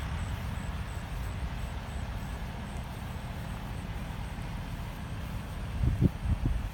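Ford mini pumper fire truck's engine idling with a steady low rumble, broken by a few louder low thumps near the end.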